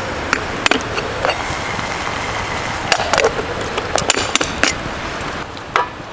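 Firewood burning, crackling with sharp irregular pops over a steady hiss, a few pops trailing off in a short falling whistle.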